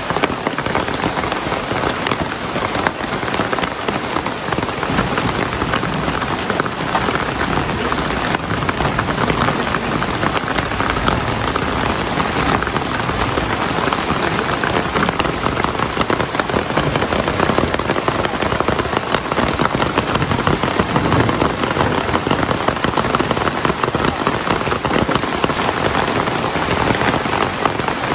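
Heavy rain falling steadily, a dense, constant patter of drops hitting surfaces.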